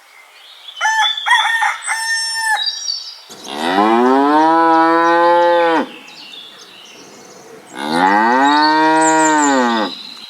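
Two long cow moos, each rising and then falling in pitch, the first about three seconds in and the second near the end. Before them come a few short high-pitched animal calls.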